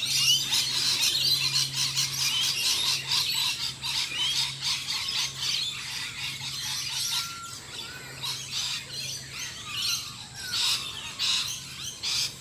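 Many birds chirping, tweeting and squawking at once in a dense dawn chorus, with a faint steady low hum beneath for most of it.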